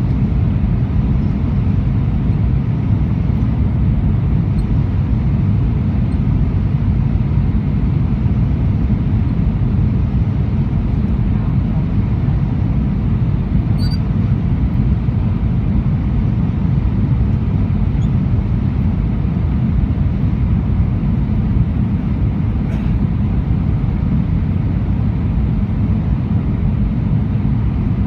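Steady low rumble of engine and airflow noise inside the cabin of an Airbus A319 in flight, with its CFM56 engines running. Two faint ticks are heard about halfway through and again later.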